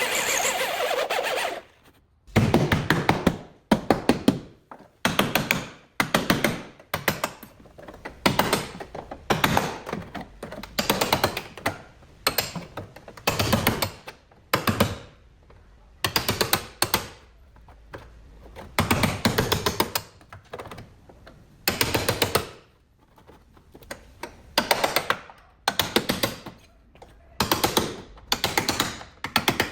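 A bodywork tool worked in short, repeated bursts: each burst is a rapid clatter of clicks lasting under a second, with a pause of about a second between bursts. Before that, a steady machine sound cuts off abruptly.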